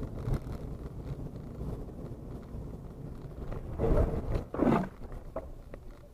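Car interior road and wind rumble as heard from a dashcam, steady and low. About four seconds in come two louder short sounds, a second or less apart, then a couple of faint clicks.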